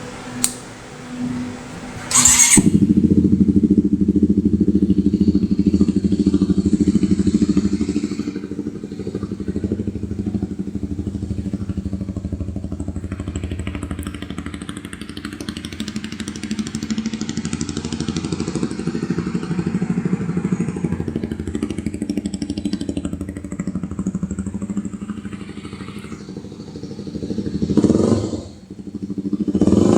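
Kawasaki Ninja 250 Mono single-cylinder engine breathing through an Akrapovic GP M146 slip-on exhaust: it starts about two seconds in and settles into a steady, deep idle. Near the end it is blipped once and drops back before revving again.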